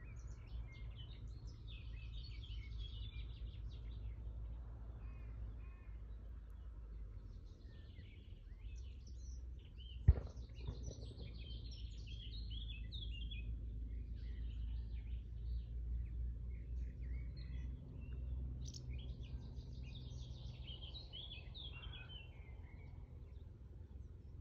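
Songbirds singing and chirping in short phrases, over a steady low rumble, with one sharp click about ten seconds in.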